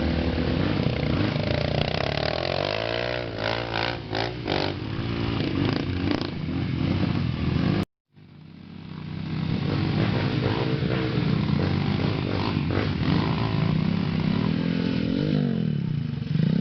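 Dirt-bike engines running and revving, their pitch rising and falling several times. The sound cuts out completely for a moment about eight seconds in.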